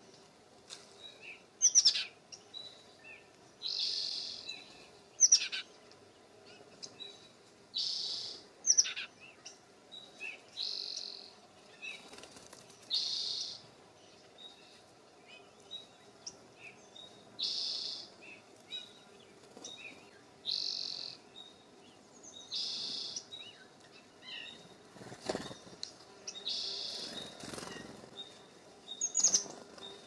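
Songbirds calling at a feeder: a short buzzy high call repeated every two to four seconds, with four loud, sharp downward-sweeping notes scattered through. A brief rustle comes in the last few seconds.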